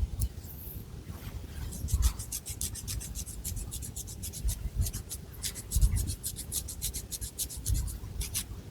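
Long fingernails scratching through thick hair against the scalp in quick, even strokes, about seven a second, with occasional low thuds underneath.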